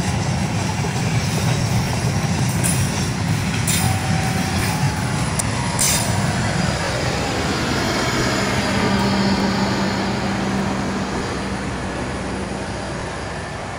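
Argo Dwipangga executive passenger train passing close by, its wheels rumbling over the rails with a few sharp clicks. A steady hum joins about two-thirds of the way through, and the sound fades as the last coaches go by.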